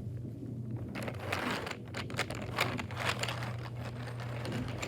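Light, irregular clicking and rattling of small plastic toys being handled, over a steady low hum.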